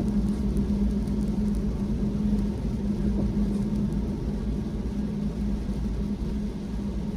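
Car driving on the road: a steady low rumble of engine and tyres with a constant hum.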